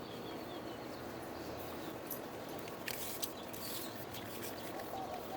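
Champion 4650 inverter generator running steadily, a low even engine-and-fan sound, apparently in eco mode at reduced speed.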